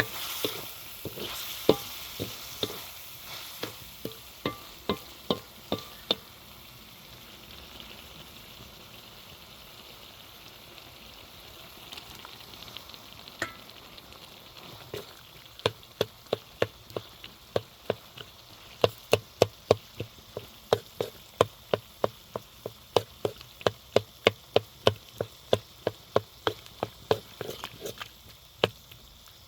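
Food frying in a pan with a steady sizzle, and a utensil knocking against the pan. There is a run of knocks in the first six seconds, then from about halfway through a steady rhythm of about two knocks a second.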